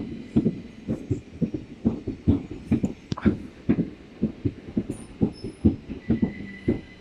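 Southeastern Class 375 electric multiple unit moving slowly alongside the platform: a run of low, uneven thuds, several a second, with a faint steady high tone.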